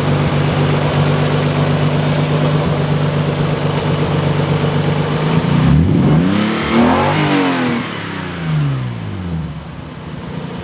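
Nissan 300ZX's naturally aspirated V6 running at a steady idle. About halfway through, the engine sound rises and falls in pitch for a few seconds, then settles back down.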